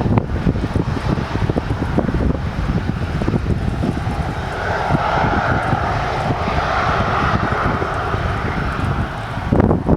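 Jet aircraft engine noise swelling about four seconds in and fading near the end, over gusting wind buffeting the microphone.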